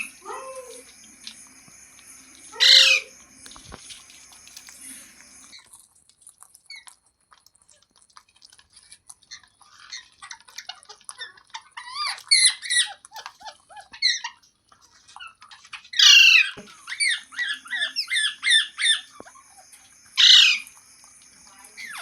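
Green parrot squawking: loud, harsh screeches near the start, about 3 s in, about 16 s in and about 20 s in, with a stretch of quick, short chattering chirps between about 10 and 19 s.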